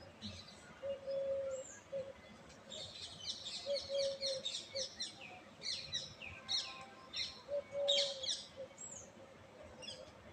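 Birds chirping: many quick, high chirps, busiest from about three to eight and a half seconds in, with a lower held note recurring every second or so.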